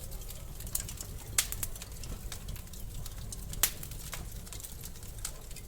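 Wood fire crackling in a fireplace: irregular sharp pops and snaps over a steady low rumble of the flames, the loudest pops about one and a half and three and a half seconds in.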